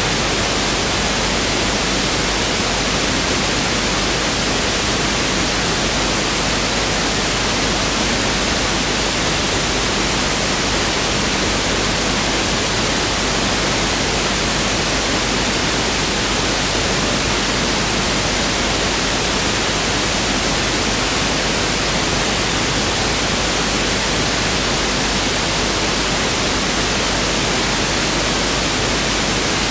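Pink noise test signal: a steady, unbroken hiss, with equal energy per octave.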